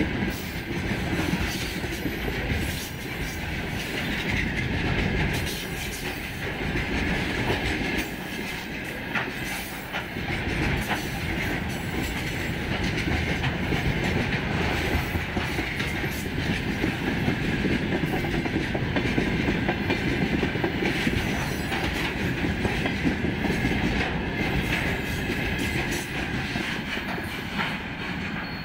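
Freight train of railway tank cars rolling past close by, the wheels clattering over the rail joints over a steady rumble. Near the end the sound starts to fade as the last car moves away.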